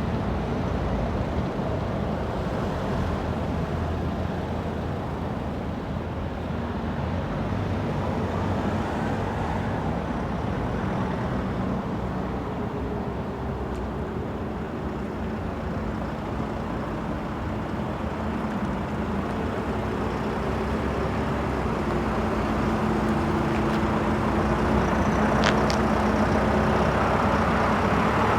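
City street traffic: a steady wash of passing cars, with an engine hum that grows louder in the last few seconds.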